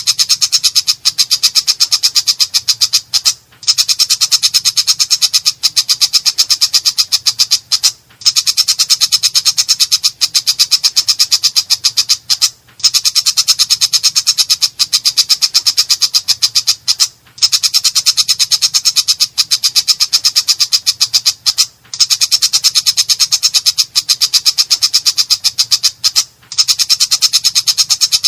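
Cendet (shrike) singing nonstop with a harsh voice: fast, rattling strings of notes in bouts of about four and a half seconds, each broken off by a brief pause.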